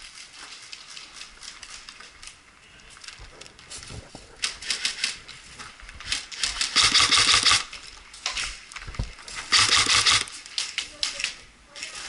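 Airsoft guns fired on semi-auto, in rapid strings of sharp single shots that click and pop. Several strings come from about four seconds in, the loudest two near the middle and near the end.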